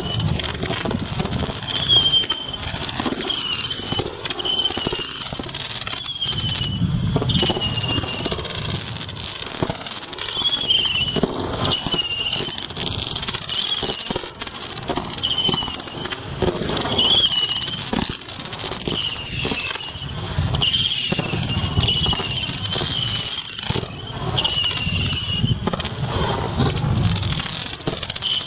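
Consumer fireworks firing one after another, with repeated short wavering whistles as the shots go up and frequent pops and crackles. Wind rumbles on the microphone throughout.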